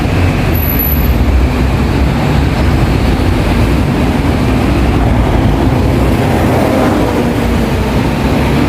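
Hong Kong double-decker tram running on its rails: a loud, steady rumble that starts abruptly and holds evenly.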